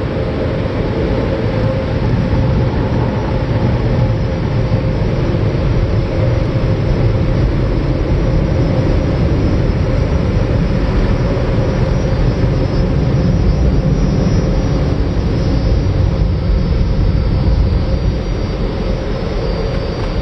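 Car wash tunnel's air dryer blowers running, a loud, steady rush of air with a faint high whine.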